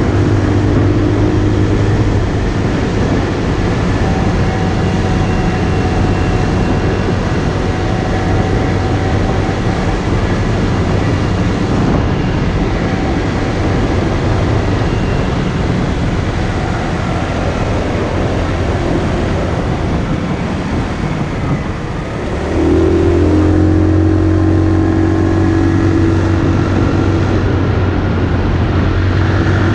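Motorcycle engine running under way, with heavy wind rush over the microphone; the engine note eases off briefly about three quarters of the way through, then picks up again.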